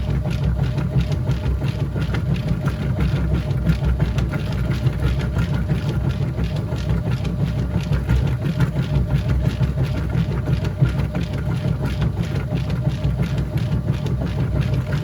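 Whirlpool top-load washing machine running mid-cycle: a steady low drone with a quick, even pulsing.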